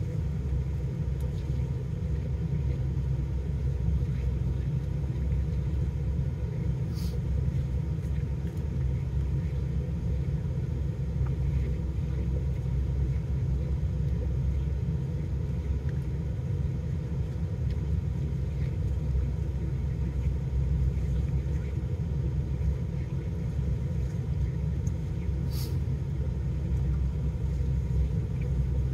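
Car engine idling, a steady low rumble heard inside the cabin, with two brief clicks, one about seven seconds in and one near the end.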